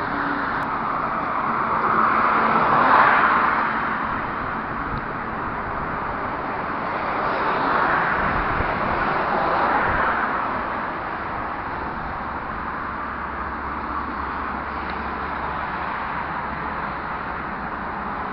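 Road traffic outdoors: a steady rush of noise with two vehicles passing, the first about three seconds in and the second around eight to ten seconds in, each swelling and then fading away.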